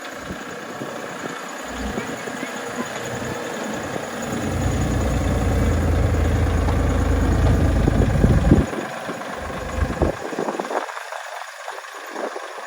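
Engine of a miniature railway tram-style locomotive running, with a low rumble that grows louder over several seconds and then drops away abruptly a little past the middle.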